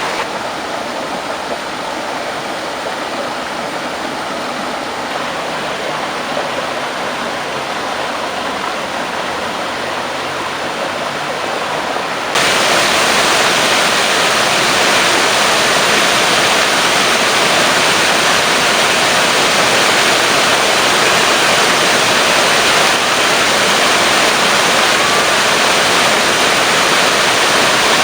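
Waterfall, a steady rush of falling water. It jumps suddenly louder and brighter about twelve seconds in, then holds steady.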